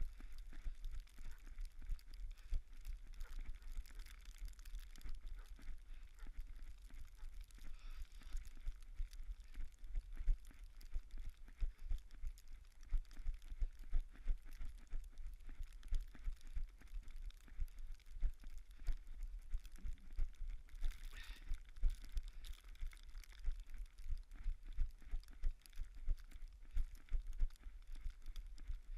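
Running footsteps on a snowy trail, a quick uneven run of soft thuds and crunches picked up by a body-worn action camera.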